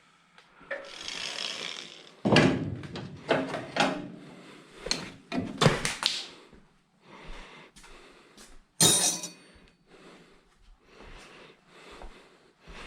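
Irregular knocks, clanks and scraping of hand tools and metal parts being handled, with the sharpest bang about nine seconds in.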